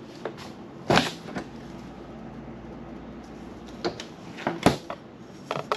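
A few scattered knocks and clicks over a steady low hum, the sharpest about a second in and another just before the end.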